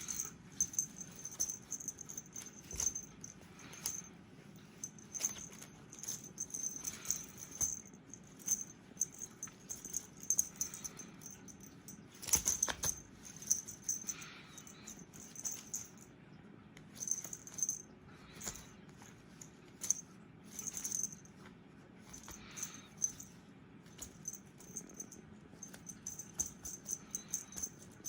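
A cat toy rattling and jingling in many short, irregular shakes, as when the toy is batted or swung about in play.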